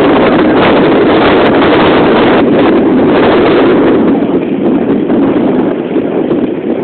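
Wind buffeting the microphone aboard a sailboat under way: a loud, steady rushing that eases slightly in the last couple of seconds.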